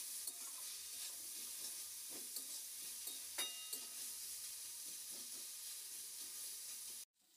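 Sliced onions, garlic, cashews and ginger frying in oil in a kadai, sizzling steadily, with a few short scrapes and taps of the spatula stirring them. The sound cuts off abruptly near the end.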